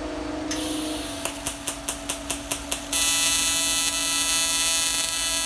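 AC TIG welding arc on aluminum from an Everlast PowerPro 256S welder. A hiss starts, then comes a quick run of about eight crackling clicks as the arc is struck. About three seconds in, the arc settles into a steady, loud buzz.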